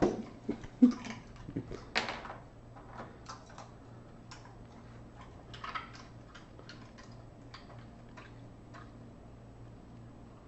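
Ice cubes clattering and clicking as a dog helps himself to ice. There are irregular sharp knocks, loudest in the first two seconds, then scattered lighter ticks.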